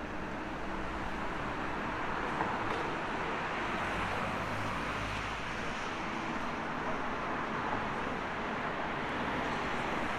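City street traffic: a steady wash of car and road noise, with a heavier low rumble from a passing vehicle about four to five seconds in.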